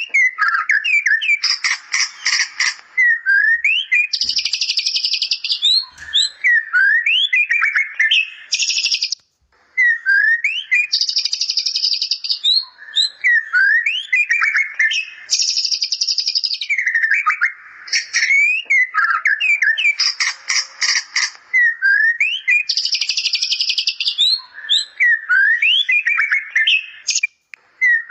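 White-rumped shama (murai batu) singing continuously, its song filled in with bar-winged prinia (ciblek) imitations: quick rising whistled notes alternating with dense, high rapid trills, the phrase pattern repeating every few seconds.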